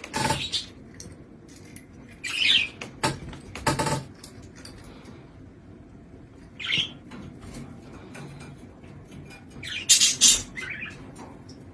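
Budgerigar giving a few short chirps, with short sharp scratches and rustles in between.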